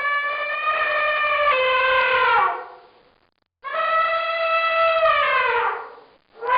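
Elephant trumpeting: two long calls, each held steady and then falling in pitch at its end.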